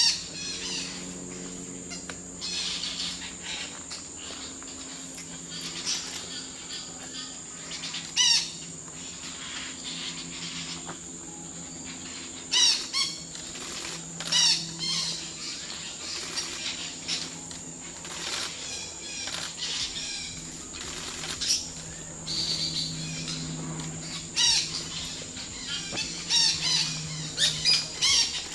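Blue-rumped parrots giving short clusters of quick, high-pitched chirping calls every few seconds, with a steady high insect drone underneath.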